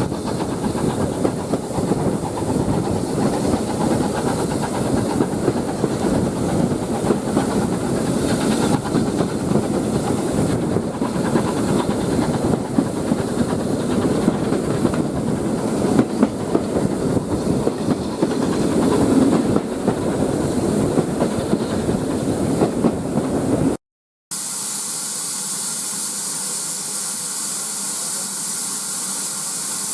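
Steam train running, a busy rumbling clatter with hissing steam. After an abrupt cut near the end there is a steady, even hiss of escaping steam.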